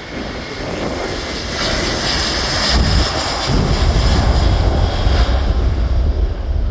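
Jet airliner on its takeoff run, the engine noise growing louder over the first few seconds into a deep rumble with a high hiss on top.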